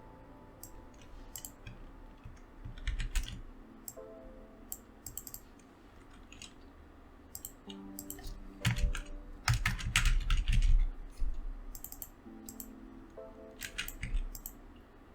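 Typing on a computer keyboard in three short bursts, the longest and loudest in the middle.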